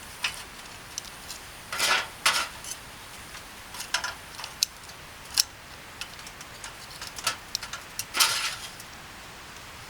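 Scattered sharp clicks and light clinks of utensils and dishes being handled, with a few short scraping sounds, the longest near the end.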